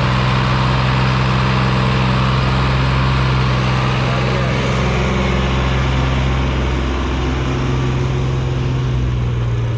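Sonalika 745 DI RX tractor's diesel engine running steadily, hauling a heavily loaded soil trolley.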